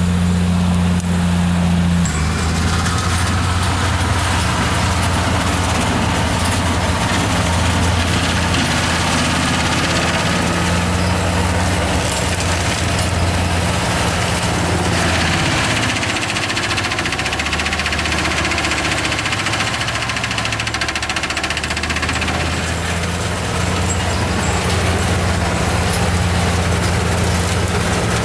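Claas Xerion 3800 tractor running steadily with its AHWI forestry mulcher. The engine note drops and roughens about halfway through, with more hiss and rattle above it, and settles back a few seconds later.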